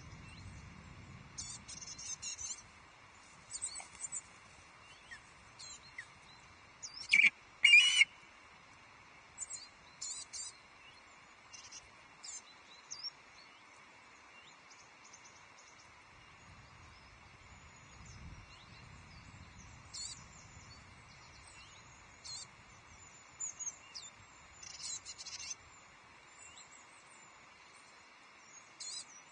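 Small wild birds chirping and singing in short, scattered phrases, with two louder calls about seven and eight seconds in.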